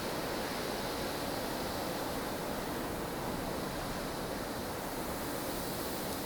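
Snowstorm wind ambience: a steady, even rush of strong, blustery wind, with no single gust standing out.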